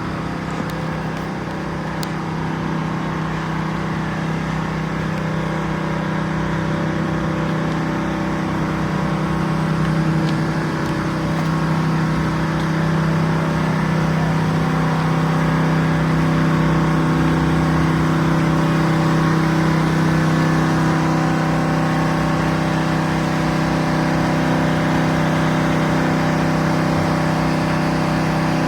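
A machine's steady hum at an unchanging pitch, growing slightly louder over the first half.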